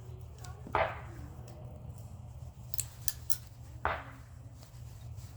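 Wire cutters snipping through scrap parts: two sharp snips about three seconds apart, with a few small clicks between.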